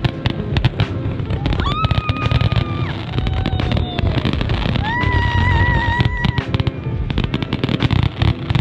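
Fireworks bursting overhead in a rapid string of bangs and crackles, with music playing over them.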